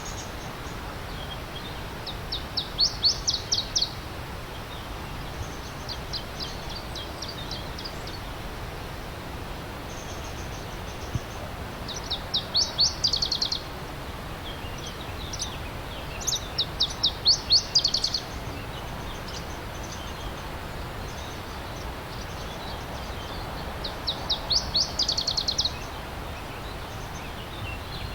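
A steady rush of stream water, with a songbird repeatedly singing a short, fast trill of sweeping high notes, five phrases each lasting about a second and a half.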